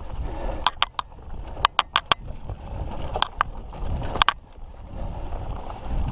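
Mountain bike rolling over a rocky trail: irregular sharp clicks and clanks from the bike over a low rumble.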